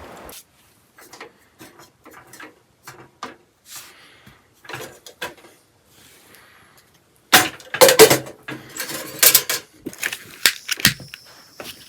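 Scattered light taps and knocks of objects being handled. About seven seconds in, a louder run of clattering and clinking strikes begins.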